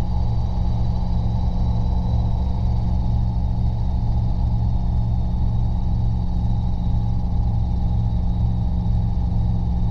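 Robinson R22 helicopter in flight, heard from inside the cabin: a steady low drone of the piston engine and rotors with a thin, high steady whine above it.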